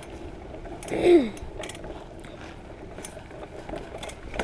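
Bicycle freewheel ticking as the bike coasts, a fast run of light clicks. About a second in, a short sound falls in pitch and is the loudest moment.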